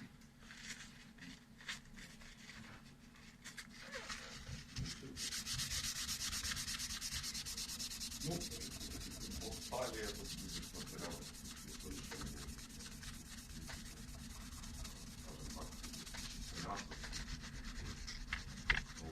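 Steady, scratchy rubbing like sanding or scrubbing a surface. It sets in about five seconds in, after a few light knocks.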